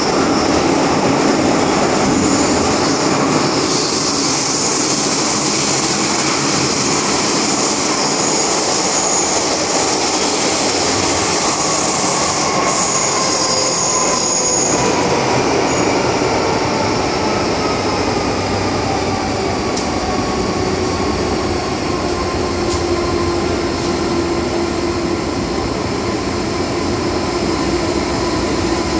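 MTR M-Train electric multiple unit running on the Tseung Kwan O line. Its wheels rumble steadily on the rails, with high-pitched wheel squeal through roughly the first half, and a faint whine slowly falls in pitch.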